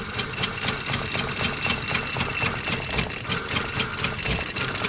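Cold Toyota 2JZ straight-six being cranked on a jury-rigged hookup: a rapid, rattling mechanical pulsing as it turns over without settling into a clean run.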